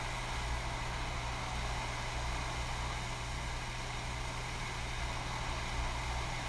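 Hot air rework station blowing a steady hiss of hot air onto the circuit board to reflow solder under a chip, with a constant low hum.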